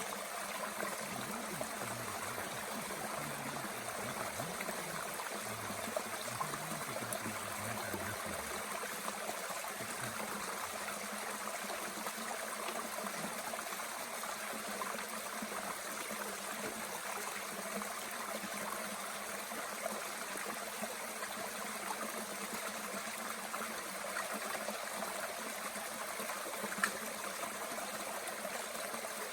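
Mountain stream running steadily, an even rush of flowing water, with a single sharp snap near the end.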